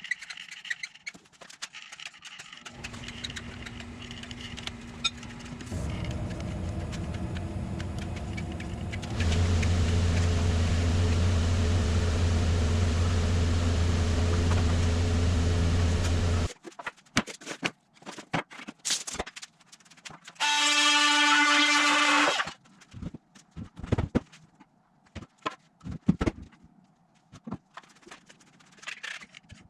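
A machine runs steadily, growing louder in two steps, then cuts off suddenly. Scattered knocks follow, with a short, loud, high whine from a motor partway through.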